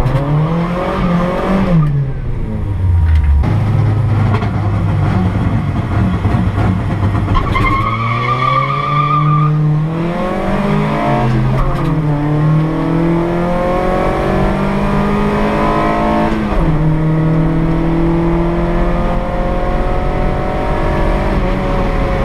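Ford Escort drag car's engine revving on the start line, then held at steady revs before a brief high squeal around the launch. It then accelerates hard down the strip, the revs climbing and dropping back at each upshift, three times.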